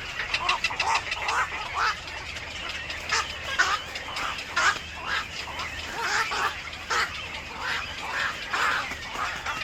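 Birds calling in a quick, irregular series of short notes.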